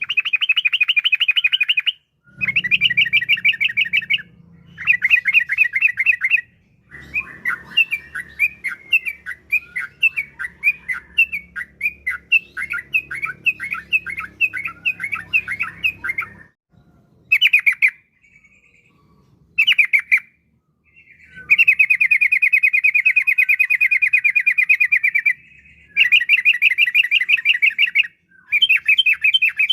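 Trucukan (yellow-vented bulbul) singing: loud, rapid trilled phrases of a couple of seconds each with short pauses between. In the middle comes a longer run of separate chattering notes over a faint low hum, and near the end a long, even trill.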